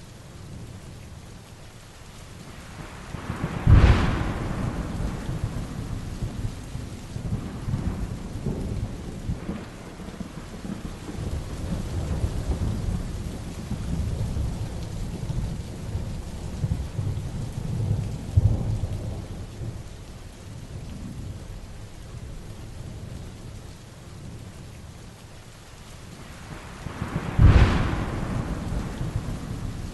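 Heavy rain falling steadily through a thunderstorm. Two sharp claps of thunder, about four seconds in and again near the end, are the loudest sounds, with low rolling thunder rumbling on between them.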